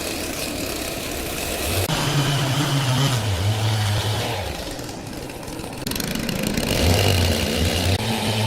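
Sawmill machinery running: a motor-like hum over a steady hiss. The hum drops in pitch about three seconds in, fades around five seconds in, and comes back stronger about a second later.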